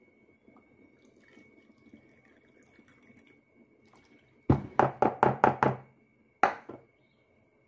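Water poured faintly from a plastic pitcher into a plastic measuring cup, then a quick run of about six sharp knocks of plastic kitchenware, and one more knock about a second later.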